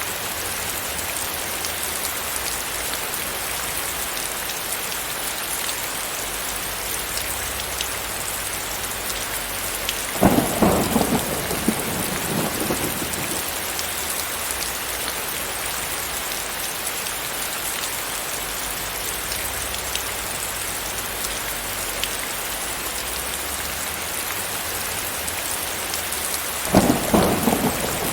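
Steady rain falling, an even hiss. Two short claps of thunder break in over it, one about ten seconds in and one near the end, each dying away within a few seconds.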